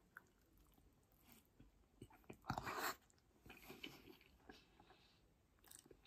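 Faint, close-up chewing of a mouthful of loaded fries, with small wet mouth clicks and a louder stretch of chewing about two and a half seconds in.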